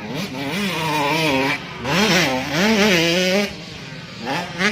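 Motocross bike engine revving, its pitch rising and falling several times as the throttle is opened and closed, with a quick rev-up near the end.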